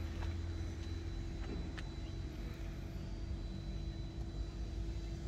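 Toyota Land Cruiser 4.7 V8 engine idling with a steady low hum.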